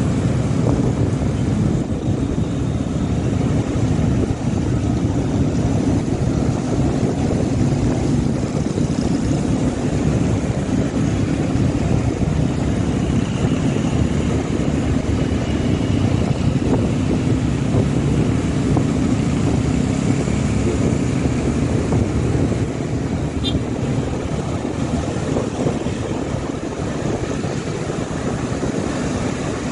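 Motorcycle running at a steady cruise, heard as a continuous low drone of engine and road noise, easing slightly in the last few seconds.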